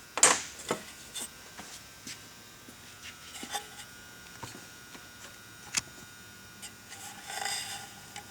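Scattered clicks and light knocks from hands and tools working on the small parts of a Homelite 150 chainsaw during disassembly, sharpest just after the start and again about two-thirds through, with a brief rustle near the end.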